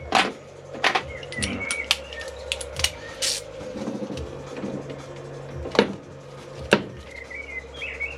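Hand tools and metal engine parts knocking and clinking on the engine, about seven sharp separate knocks, over a steady hum. Birds chirp briefly near the start and again near the end.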